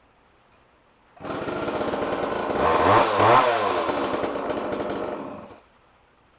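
Homelite XL two-stroke chainsaw engine running, starting about a second in, revved up and down twice, then dying away after about four seconds. It is a test run after a new spark plug, with the chain running smooth.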